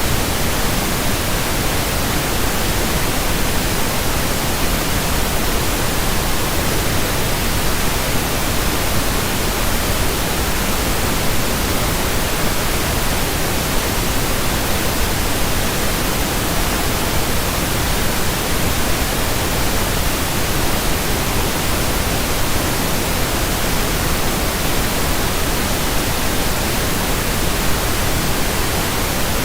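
Pink noise: a steady, even hiss spread across the whole range, without change.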